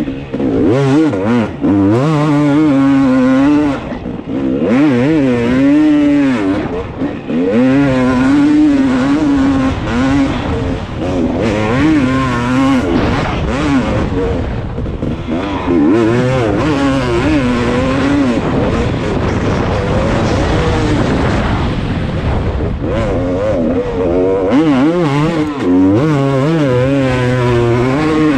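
Dirt bike engine revving up and falling back over and over as the bike is ridden hard round a sand track, the pitch climbing and dropping every second or two.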